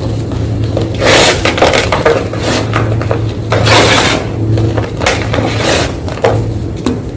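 Fresh white gym chalk being crunched: a series of irregular, crisp crunching bursts, with a low steady hum underneath.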